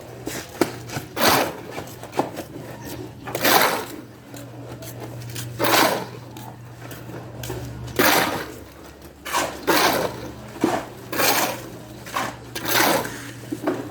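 Construction hand-tool work: a run of short rasping strokes, one every second or two, over a steady low machine hum.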